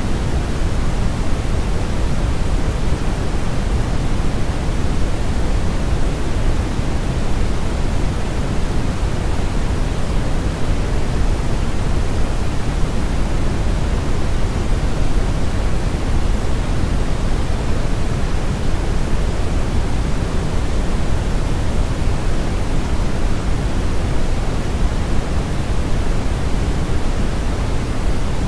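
Brown noise: steady, unchanging synthetic noise with its energy weighted to the low end, a deep rushing hiss.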